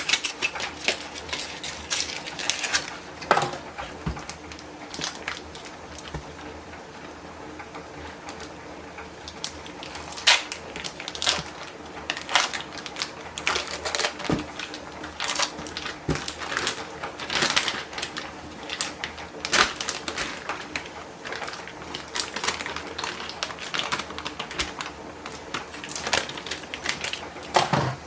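Kitchen food-prep clatter: rapid, irregular clicks and taps of utensils and containers being handled on a bench, easing off briefly for a few seconds, over a faint steady hum.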